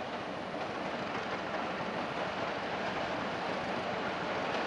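Passenger train hauled by a CC201 diesel-electric locomotive crossing a steel trestle bridge: a steady rolling noise of the train that grows slightly louder.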